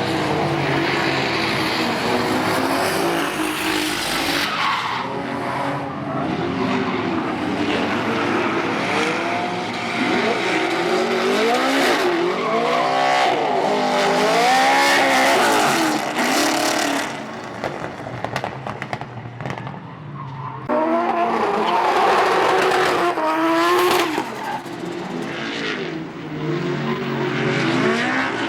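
Dodge-engined Holden Commodore drift car revving hard while drifting, its engine pitch rising and falling repeatedly over the squeal and hiss of sliding tyres. The engine eases off for a few seconds past the middle, then comes back on hard.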